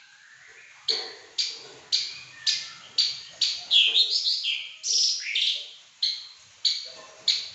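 Caged pakling songbird singing: after a brief pause it gives a run of sharp, high chirping notes about two a second, with a quick sweeping, warbling phrase in the middle.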